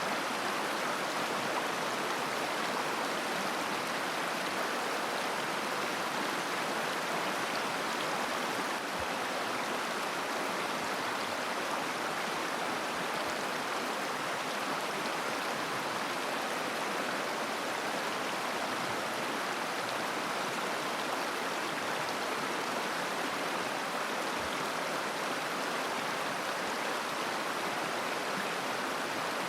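A shallow mountain river babbling and rushing over stones, a steady, even wash of water sound.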